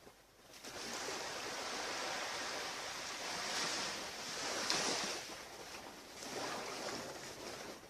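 Ocean surf washing onto a beach, a steady rush that swells and fades, loudest about five seconds in.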